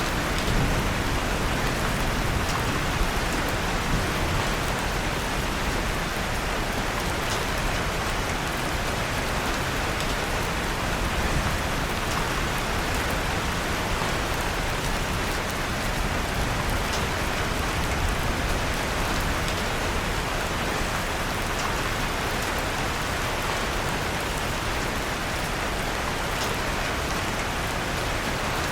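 Steady rain, with a few faint crackles from a wood fire in a fireplace scattered through it.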